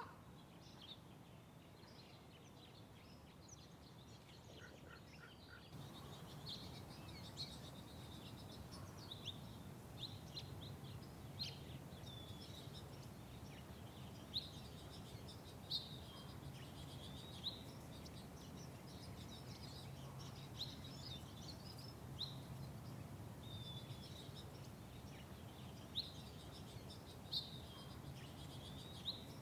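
Small birds chirping, many short chirps every second or so, a few of them sharper and louder, over a steady low background hum.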